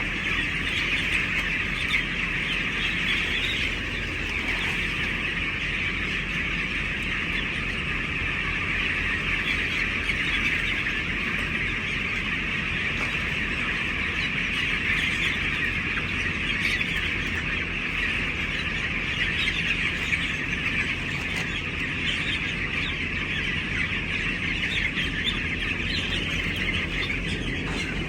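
A large flock of broiler chickens in a poultry shed, many birds chirping and calling at once in a dense, steady chorus.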